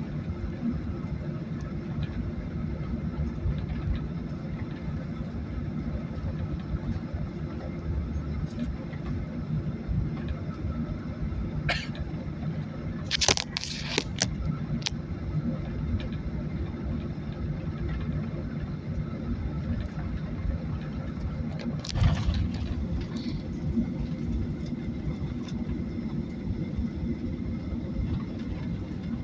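Steady low rumble of a Boeing 737's engines and airframe heard inside the passenger cabin, with a few sharp knocks and rattles: a cluster about halfway through and one more later.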